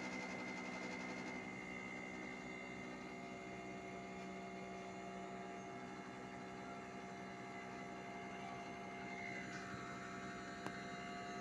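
Hitachi 1-ton split air conditioner outdoor unit running with a steady, many-toned hum. Near the end a higher tone shifts in pitch as the unit's speed rises, and there is one brief click. This is the unwanted running noise the unit is being checked for.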